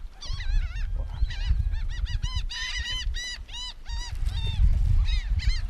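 A large flock of birds calling without pause, many short, arched calls overlapping, thickest in the middle, over a low rumble.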